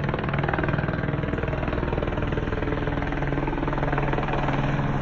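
Helicopter flying low overhead, its rotor blades making a steady rapid chop over the engine's drone.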